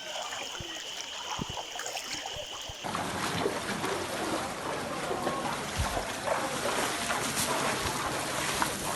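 Light water sounds, then about three seconds in a cut to a louder, even rush of moving floodwater.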